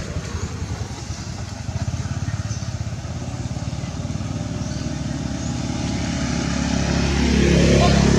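A motor vehicle's engine running with a fast, even pulse, growing louder near the end as it draws closer.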